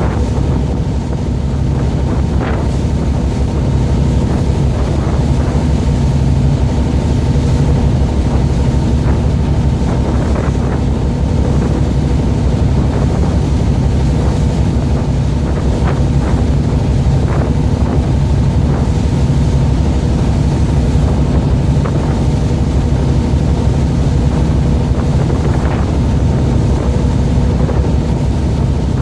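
Boat engine running steadily, with wind buffeting the microphone and a few brief knocks scattered through.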